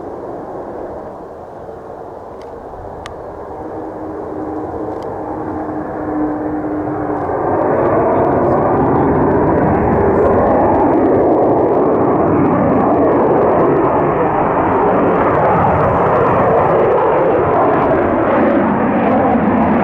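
Aircraft engine noise that builds over several seconds as the plane comes closer, then holds as a loud, steady roar.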